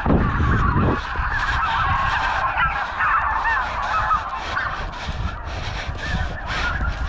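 A flock of geese honking, many birds calling over one another in a dense continuous chatter, with a low rumble in the first second.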